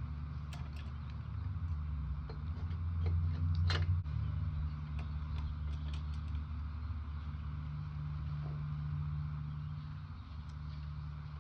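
A steady low mechanical hum, with scattered light clicks and taps of small metal parts being handled. One sharper tick comes just before four seconds in.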